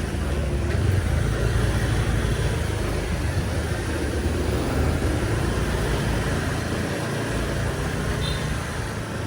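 Steady street traffic: running engines and road noise in a continuous low rumble.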